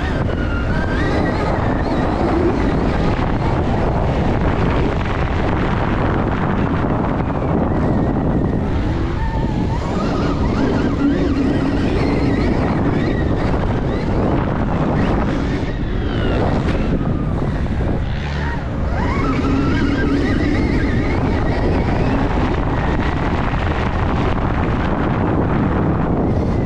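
Stark Varg electric dirt bike being ridden hard on a motocross track: heavy wind rush on the microphone and tyre noise, with a whine that rises and falls as the throttle opens and closes.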